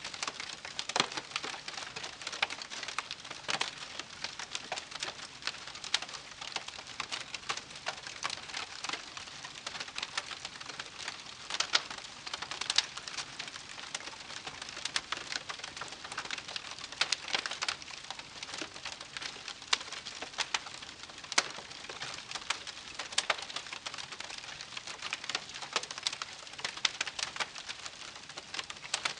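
Wood campfire crackling, with frequent irregular pops and snaps, several a second, over a soft hiss.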